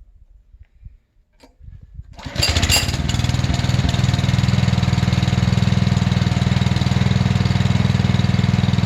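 Small gasoline engine on a Simpson ALH3228-S pressure washer pull-started with the choke off: it catches about two seconds in and settles into steady running.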